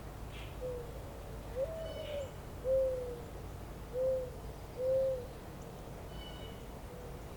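A bird's low hooting call: a short hoot, a longer, higher, rising one, then three evenly spaced hoots, with fainter hoots near the end. A few faint high chirps from small birds come in over a steady low rumble.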